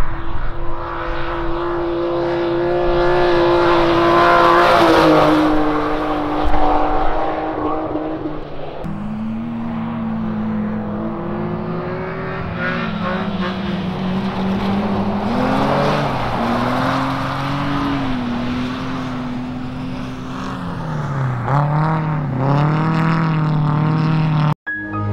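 Race car engines on an ice track, revving hard with the pitch rising and falling as the throttle comes on and off through the corners.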